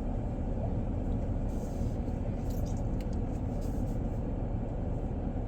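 Steady low rumble inside a parked car with its engine running, with a few faint light ticks.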